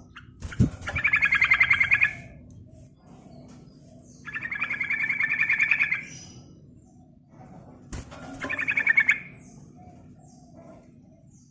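Yellow-vented bulbul (trucukan) giving three bursts of fast rolling chatter, each one to two seconds long, with pauses between them. A sharp click comes about half a second in and another about eight seconds in.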